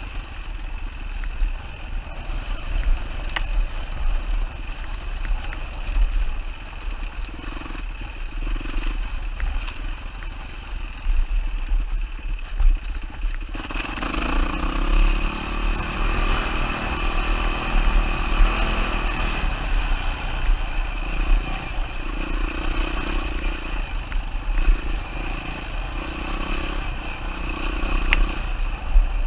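2007 Yamaha WR-450's single-cylinder four-stroke engine running under way over a dirt trail, with a constant low rumble and scattered clatter and scrapes. The engine grows markedly louder about halfway through, then comes in a run of short throttle surges near the end.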